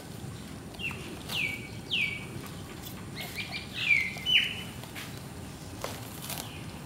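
A bird calling: a few short notes, each sliding down in pitch, in the first two seconds, then a quicker run of falling notes, loudest about four seconds in. Faint crackles of dogs gnawing dry coconut husks come in between.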